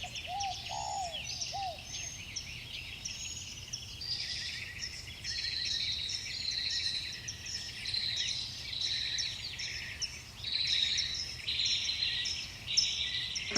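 Birds chirping: many short, high chirps overlapping without pause, with three lower rising-and-falling calls in the first two seconds.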